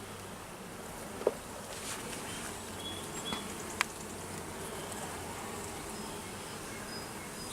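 Honey bees buzzing around an open hive, a steady hum, with two short clicks about a second in and near four seconds.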